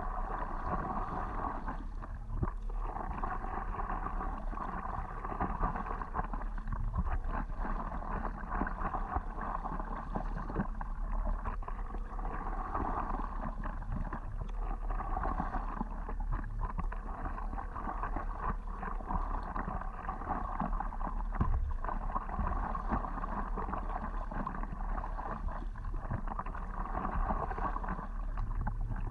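Water swishing and gurgling against a stand-up paddleboard and its paddle, swelling and fading every few seconds with the strokes, over a steady low rumble.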